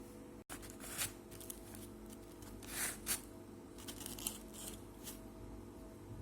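Several short rustling, crinkling handling noises, scattered irregularly over a steady low hum, with a momentary dropout about half a second in.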